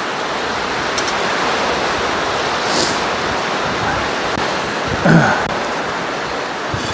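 Steady rushing hiss of a running forge, even and unbroken, with one brief short sound about five seconds in.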